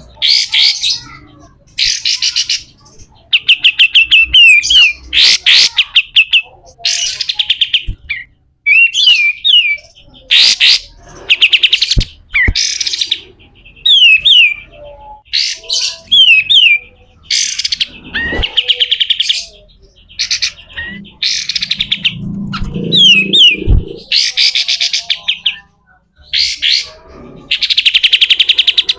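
Kapas tembak (olive-winged bulbul) calling loudly in quick repeated bursts: harsh, rasping 'besetan' chatter alternating with short sliding whistled notes, a new phrase every second or so.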